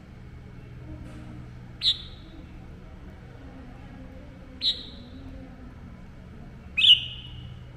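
Red-whiskered bulbul giving three short, sharp call notes a couple of seconds apart, the last the loudest.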